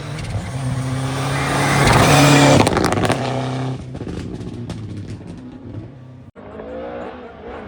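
Historic rally car passing at speed on a special stage. Its engine swells to its loudest about two seconds in, then the driver lifts off with a string of sharp cracks as the car pulls away. Near the end a sudden cut brings in another car's engine.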